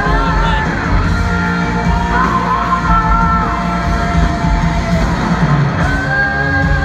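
Live rock band playing, with a male lead singer holding long sung notes over the full band.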